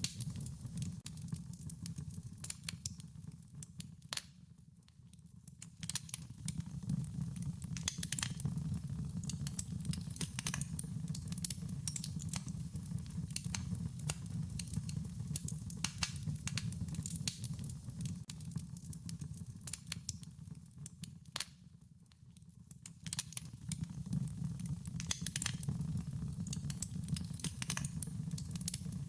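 Wood fire crackling: a dense run of sharp pops and snaps over a steady low rumble of burning, dropping off briefly twice.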